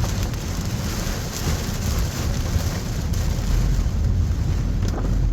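Heavy rain pelting a moving car, with a steady rush of rain and road spray over the low rumble of the car driving on a wet road.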